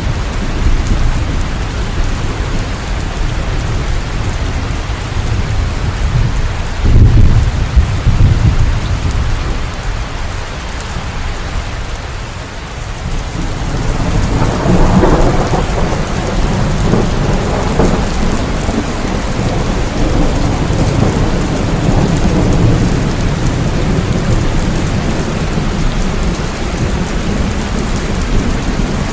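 Steady rain falling, with rolling thunder. A sudden loud clap about seven seconds in, then a longer rumble that swells up about halfway and rolls on.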